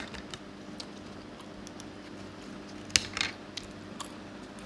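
Close-miked chewing: wet mouth clicks and smacks as a person eats roti with mutton curry, with a louder run of smacks about three seconds in. A steady low electrical hum sits under it.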